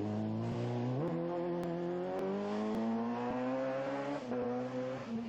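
A rally car's turbocharged four-cylinder engine under hard acceleration. The engine note jumps up about a second in, climbs steadily for about three seconds, then drops at a gear change and pulls again.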